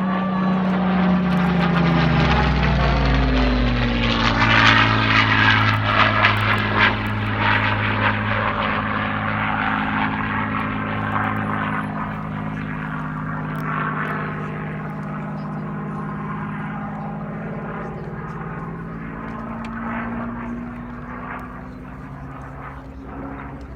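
Propeller-driven piston-engined aircraft flying past: the engine note drops in pitch over the first few seconds as it passes, then drones on steadily and slowly fades as it moves away.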